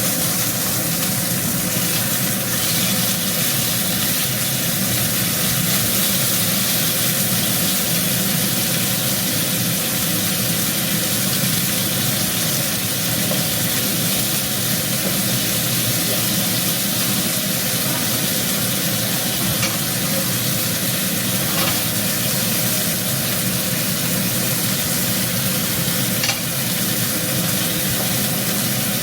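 Beef short ribs frying in hot oil, a steady crackling sizzle. Underneath runs a constant low hum, and a few light clicks sound near the end.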